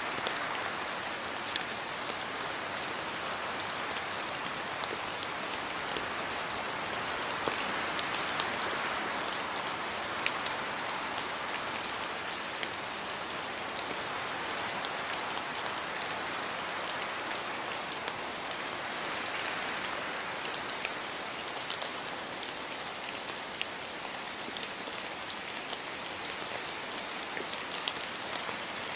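Steady rain: a continuous hiss with many separate drops ticking sharply throughout.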